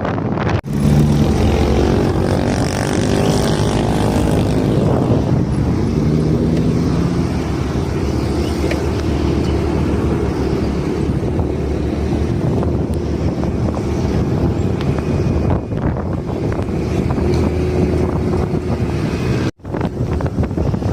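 Motor vehicle engine running on the road, its pitch rising and falling over the first few seconds, mixed with road and wind noise; the sound drops out briefly about half a second in and again near the end.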